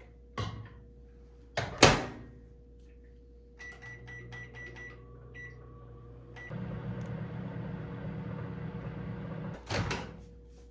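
Microwave oven in use. Its door shuts with a loud bang, its keypad gives a string of short beeps, then it runs with a steady low hum for about three seconds. A thump comes near the end.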